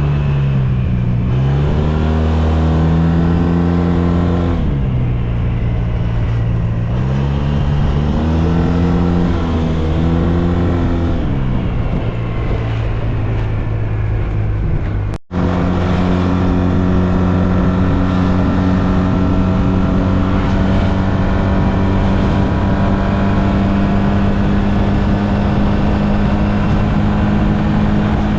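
SYM Maxsym TL 508 scooter's parallel-twin engine running under way, its pitch rising and falling several times with the throttle. After a brief dropout about halfway through, it holds a steady pitch at constant speed.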